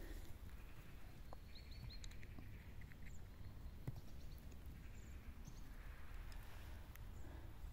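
Faint outdoor background with a quick run of four high chirps from a small bird about a second and a half in, a few scattered faint high calls, and occasional soft clicks.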